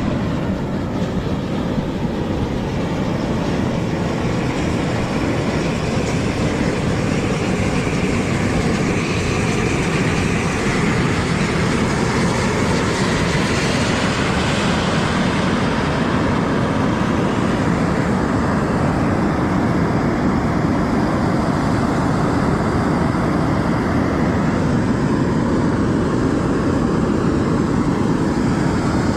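A machine starts up suddenly and runs loudly and steadily, a dense rumble with hiss that holds unchanged throughout.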